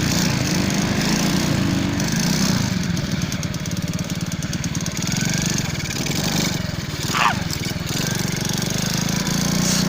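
Motorcycle engine running steadily under way, a continuous drone with a brief rising squeak about seven seconds in.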